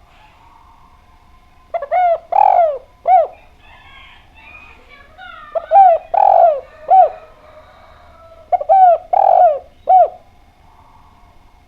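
Spotted dove (derkuku) cooing in three-note phrases of low, arched notes, the phrase given three times about every three and a half seconds.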